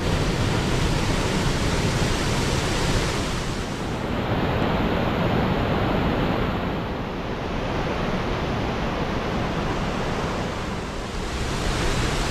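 Steady rushing of water, a loud even noise with no distinct events. The hiss in the upper range drops away about four seconds in and comes back near the end.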